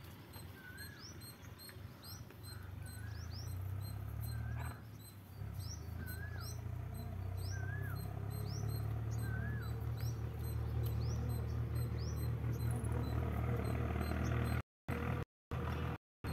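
A bird calling over and over, about once a second: a short up-and-down whistle with a quick rising note, over a low steady hum. The sound cuts out briefly a few times near the end.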